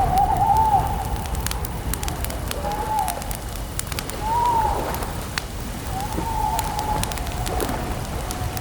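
Wood campfire crackling: sharp pops scattered irregularly over a low steady rumble. A short tone that rises and falls comes back every second or two.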